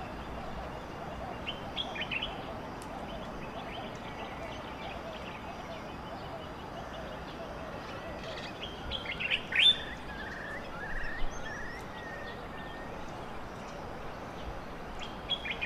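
Bird calls: a few short, sharp calls, a louder cluster about halfway through, then a short run of down-slurred notes, over a steady hiss of outdoor ambience.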